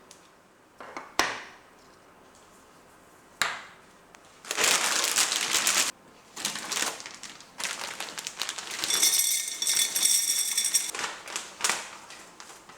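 Kitchen handling sounds: a sharp knock about a second in and another a little after three seconds, then several seconds of loud crinkling and rustling.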